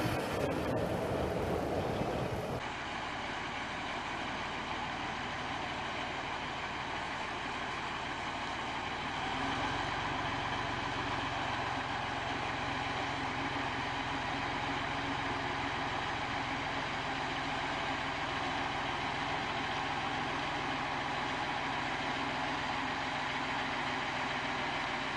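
Heavy truck engine running steadily, after a sudden change in the sound about two and a half seconds in; the low rumble grows a little stronger near the middle.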